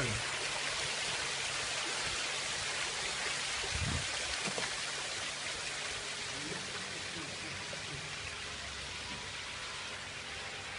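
Steady rush and splash of water falling in a built garden waterfall.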